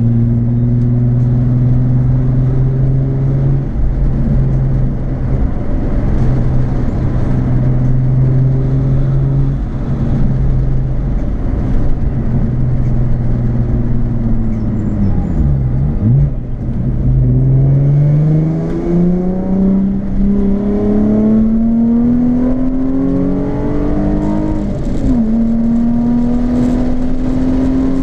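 Nissan 350Z's 3.5-litre V6 through a Japspeed aftermarket exhaust, heard while driving: a steady cruise for the first half, a brief dip in pitch about halfway, then a steady climb in pitch as the car accelerates. Near the end the pitch drops briefly and holds steady at the higher note.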